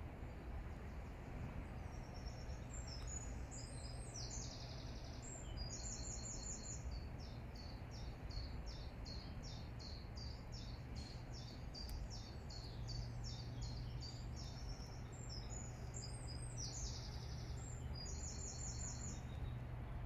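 A songbird singing high, rapid trilled and repeated phrases, starting about three seconds in, over a steady low rumble.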